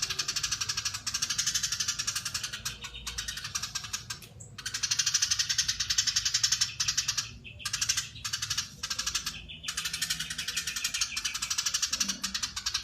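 Eurasian tree sparrow chattering in long, fast, tightly packed runs of rapid notes, breaking off briefly a few times.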